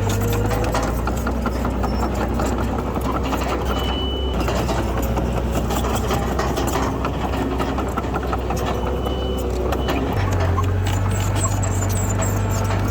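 Heavy earthmoving machinery's diesel engine running steadily under work, its note shifting about half a second in and again near the end. Two brief high squeaks come around the middle.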